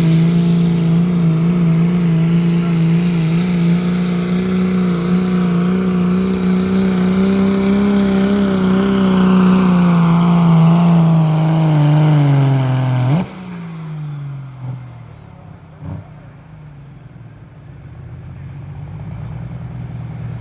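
Diesel pickup truck engine held at high revs under full throttle as it pulls the sled. About two-thirds of the way through, the throttle is let off and the engine winds down sharply. A brief knock follows, then quieter engine noise.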